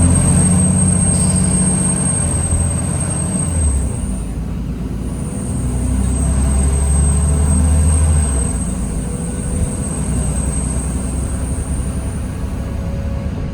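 New Flyer D40LFR diesel transit bus pulling away twice in stop-and-go traffic: the engine rumble swells for a few seconds each time with a thin, high steady whine over it. The whine fades near the end.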